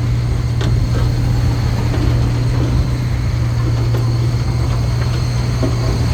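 Diesel engine of heavy road-construction machinery running steadily, a constant low hum with no change in speed, and a few faint clicks over it.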